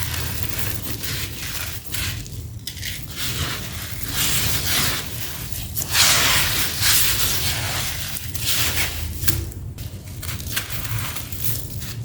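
Dry sand-cement chunks crumbling into grit, a dense gritty crunching and crackling that swells loudest about six seconds in, over a low steady hum.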